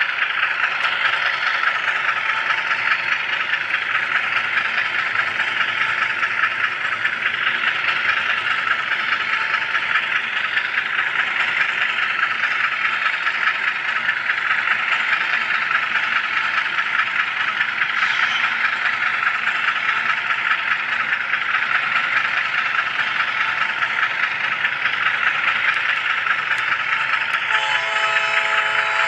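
An HO scale camera car rolls along model railroad track with a steady rattling hiss of small wheels on rail. Near the end, a held tone of several pitches joins in.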